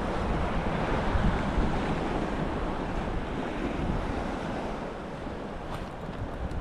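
Steady wind buffeting the microphone over sea water lapping against a kayak.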